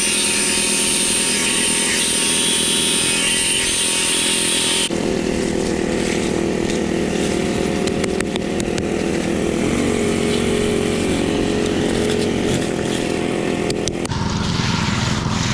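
A small petrol engine on a concrete tool running steadily under load. Its tone shifts abruptly about five seconds in and again near the end.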